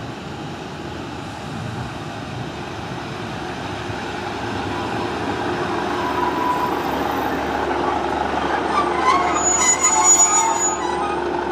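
Northern Class 150 diesel multiple unit coming in alongside the platform, its underfloor diesel engine and wheels on the rails growing steadily louder as it nears. High-pitched metallic squeals join in about nine seconds in.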